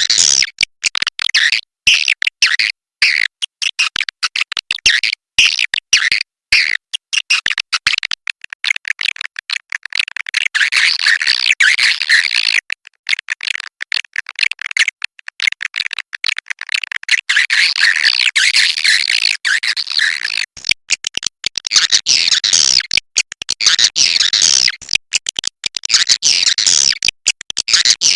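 Cave swiftlets chattering: a dense, continuous twittering of high calls, broken by many abrupt short gaps.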